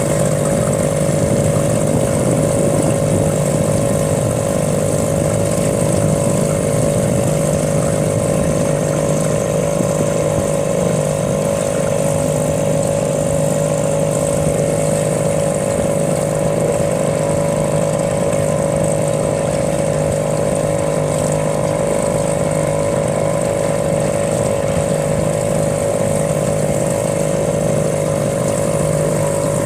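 A motor running at a steady speed, a constant drone with several held tones and no change in pitch.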